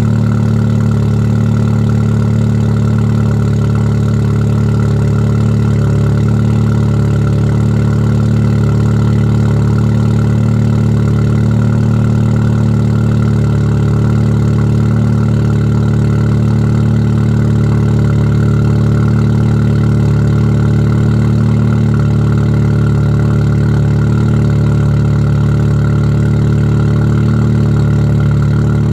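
Audi S3 8V's turbocharged 2.0 TFSI four-cylinder, stage 2 Revo tune with Skat downpipe and Scorpion exhaust, idling steadily with an even exhaust note and no revs or pops.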